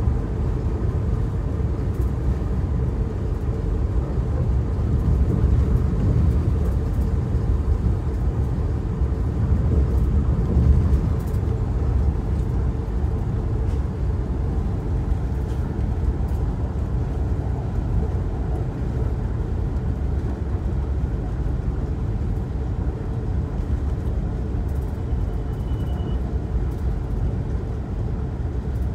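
Amtrak Keystone Service passenger train running at speed, heard from inside the coach: a steady low rumble of the car and its wheels on the rails.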